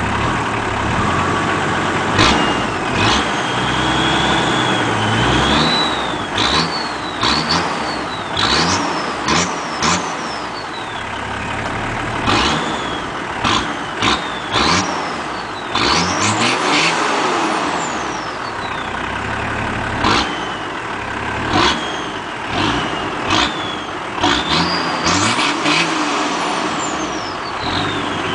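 Nissan VG V6 engine in a Nissan Patrol idling and being revved in short throttle blips again and again, the revs jumping up sharply and dropping back to idle each time.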